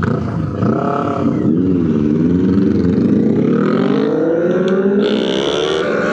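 Motorcycle engine under way, its pitch wavering in the first two seconds and then rising steadily as it accelerates, with wind noise over it.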